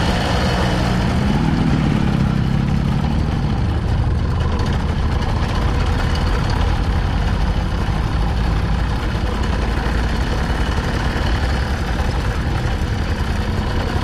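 Motor vehicle engine running steadily, with a brief swell in pitch and level about two seconds in.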